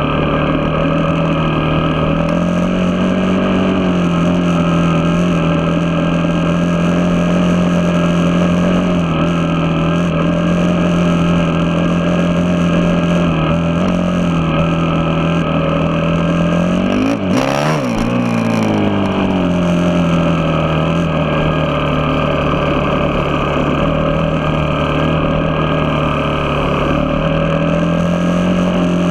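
Vehicle engine running at a steady speed while driving, holding one even pitch. About seventeen seconds in, another vehicle goes by with a brief falling-and-rising sweep of pitch.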